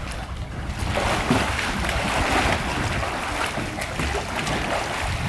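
Water splashing and sloshing, with wind rumbling on the microphone.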